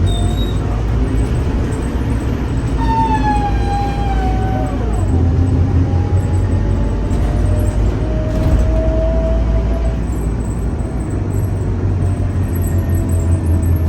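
Scania K310UA city bus running, its engine giving a steady low drone. A thin driveline whine falls in pitch about three seconds in and fades, then returns steadier and slightly rising around eight to ten seconds.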